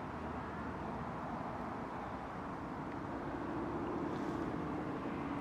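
Steady distant engine drone over a low background rumble, with a steady hum coming in about three seconds in.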